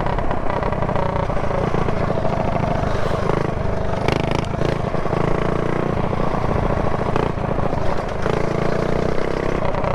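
Mini bike's single-cylinder pushrod engine running steadily under way as it is ridden, its pitch wavering only slightly, with wind and road rumble on the helmet-mounted microphone.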